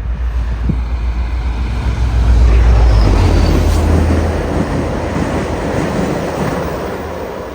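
VIA Rail passenger train with diesel locomotive 6432 and five coaches passing at speed: a heavy low rumble and rush of wheels on rail that builds to its loudest about two to three seconds in, then eases off as the coaches roll by.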